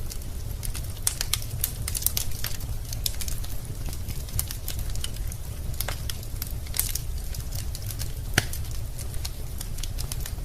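Wood fire burning in a fireplace, crackling with frequent sharp pops over a low steady rumble; one louder pop comes about eight seconds in.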